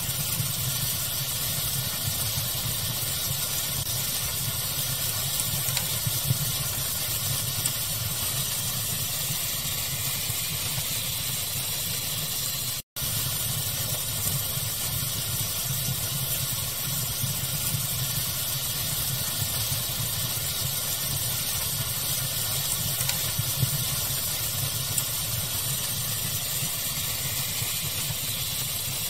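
Fire ambience blended into steady pink noise: a constant dense hiss and rumble with a few small crackling pops. It drops out completely for an instant about thirteen seconds in.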